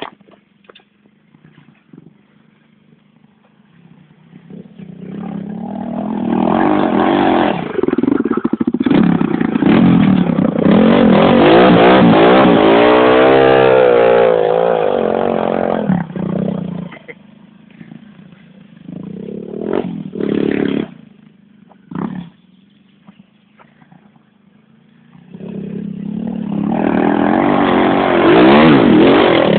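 Pit bike's small single-cylinder engine revving as the bike rides by, rising and then falling in pitch, then dropping back with a few short blips of throttle before it builds up loud again near the end.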